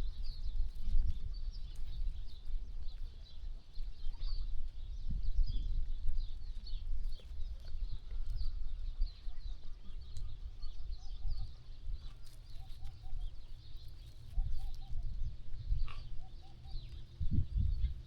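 Small birds chirping and twittering over a low, gusty rumble, with a faint run of short notes in the second half.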